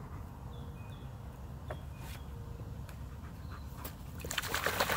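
Low steady outdoor background with a few faint high chirps and light ticks, then about four seconds in a loud burst of splashing water starts and builds.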